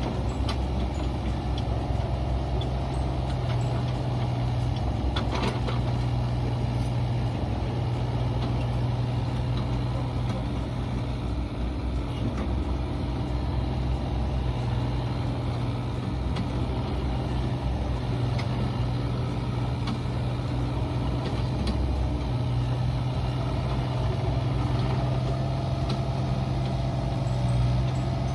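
Mini excavator's diesel engine running steadily, with a few light knocks from the machine at work.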